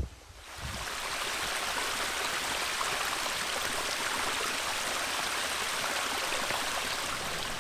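Rushing stream water: a steady, even hiss of flowing water that fades in within the first second.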